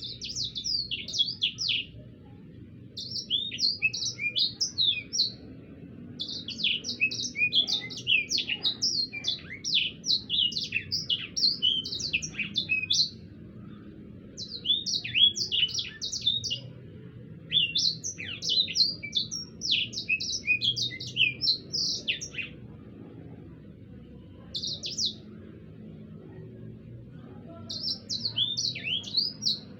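A sanger songbird singing its rolling song: rapid runs of high, mostly falling notes in bursts of one to three seconds with short pauses between, with a longer lull about two-thirds of the way through. A low steady hum sits underneath.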